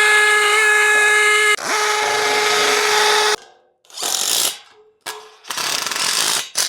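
Hammer drill boring a hole for a concrete anchor, running at a steady whine with a brief drop about one and a half seconds in, then stopping about halfway through. Three short rushing bursts of noise follow.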